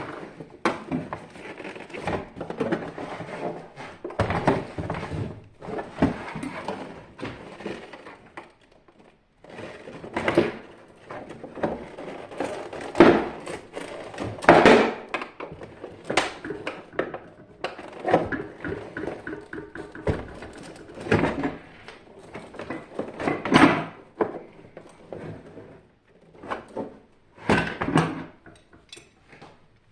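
Irregular knocks, clanks and short clatters of hand tools and metal parts being handled while a water heater is taken apart. There are brief pauses about eight seconds in and again near the end.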